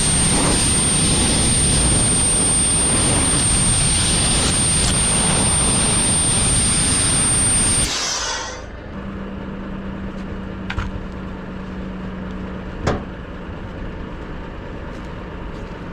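Powerful air blower blasting air over a truck to dry it, a loud rushing hiss with a thin high whine on top that cuts off about eight seconds in. A much quieter steady hum follows, with a low tone for a few seconds and two sharp clicks.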